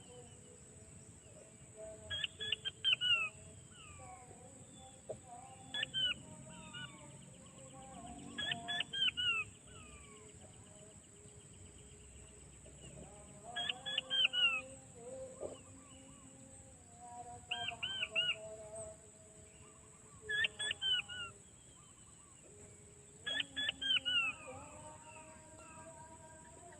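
Quail calling: clusters of short, high, falling piping notes that repeat every three to four seconds, with fainter lower drawn-out notes beneath.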